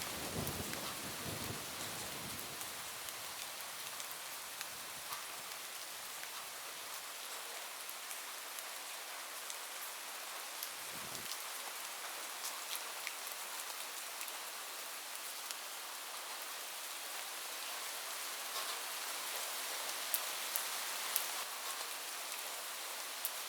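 Steady heavy rain falling on a roof, an even hiss, with the tail of a thunder rumble dying away in the first couple of seconds. A few sharper drop ticks stand out near the end.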